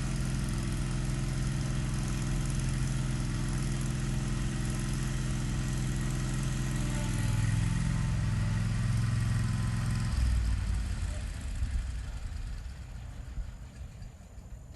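An engine running at a steady idle. Its note shifts slightly about seven seconds in, then it fades away from about ten seconds in.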